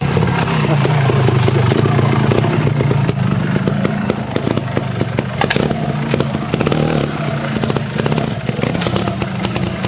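Trials motorcycle engine running at low, fairly steady revs while the bike is ridden slowly over rocks, with scattered sharp clicks.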